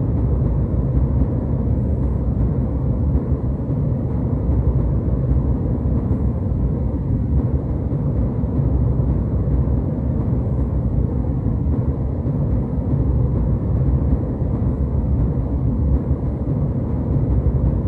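Jet airliner cabin noise in flight: a steady, even low rumble of engines and airflow with no changes.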